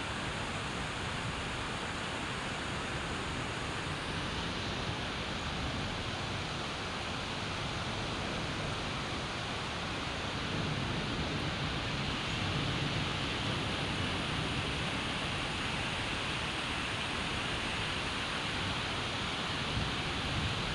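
Steady rain of the summer monsoon, an even hiss without breaks, a little louder about halfway through.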